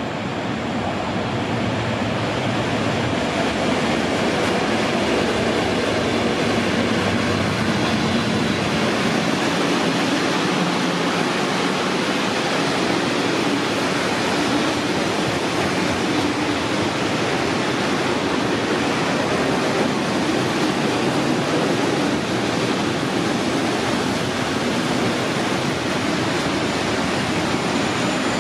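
A train running through the station on the rails: a loud, steady rush of wheel and track noise that builds over the first few seconds and then holds. Thin, high wheel squeal creeps in near the end.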